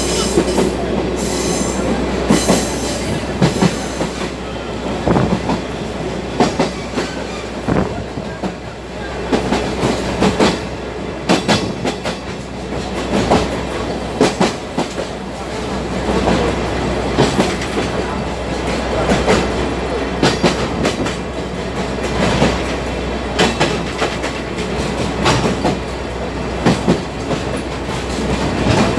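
Sagano trolley train running along the line, heard from aboard: wheels clacking irregularly over the rails over a steady low rumble.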